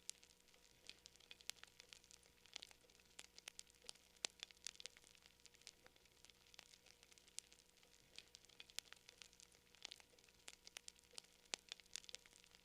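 Quiet campfire crackling: wood burning with irregular sharp snaps and pops, several a second, over a faint hiss.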